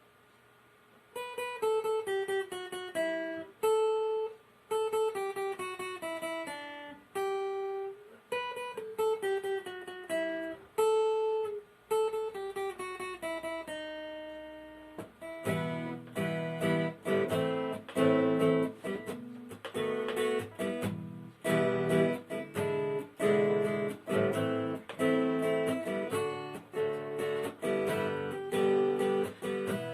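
Acoustic guitar playing an instrumental intro: a picked single-note melody in short descending phrases, then, about halfway through, rhythmic strummed chords with a fuller bass.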